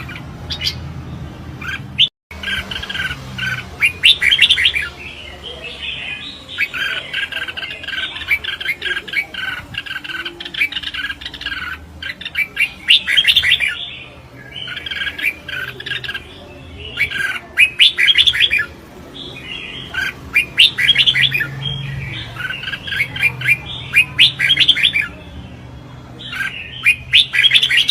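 Red-whiskered bulbuls in competition song, singing short, quick warbling phrases one after another with brief pauses between them.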